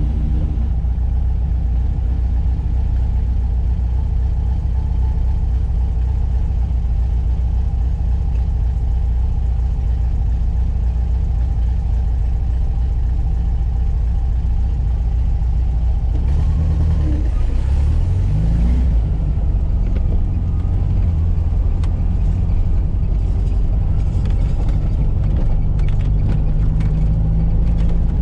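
Air-cooled flat-four boxer engine of a 1985 Volkswagen Fusca (Beetle) running while driving, with a steady low rumble of engine and road. The engine note rises about two-thirds of the way through and again near the end, as the car accelerates.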